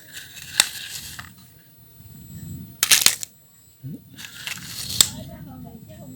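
Small plastic toy vehicles being handled and loaded: sharp clicks, a brief clatter of clicks about three seconds in, and crunching, scraping noises in between.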